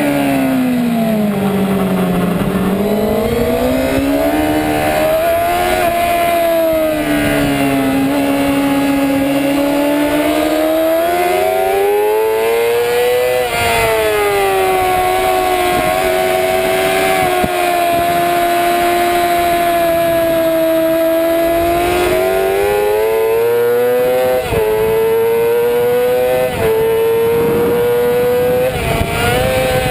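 Sport motorcycle engine at racing revs, heard onboard, its pitch dropping under braking into corners and climbing again on the throttle. Near the end it pulls hard with three quick upshifts, each a short dip in pitch followed by a fresh rise.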